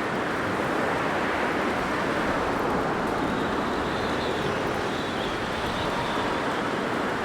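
Blizzard wind blowing steadily, an even rushing noise with a faint high whistle for a couple of seconds near the middle.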